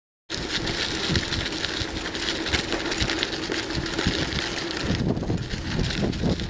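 Wind rushing over the microphone of a moving camera, with a low rumble and a faint steady hum underneath, cutting in abruptly just after the start.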